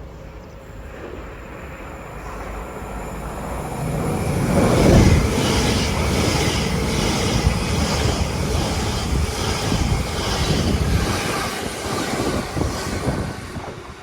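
A train running through the station without stopping. Its rumble builds over the first few seconds, is loudest about five seconds in, and stays loud with a regular rhythmic beat before fading away near the end.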